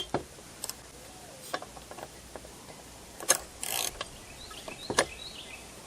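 Sparse mechanical clicks and a short rasp about three and a half seconds in, from a rebuilt chainsaw engine being turned over by hand to check its squish clearance.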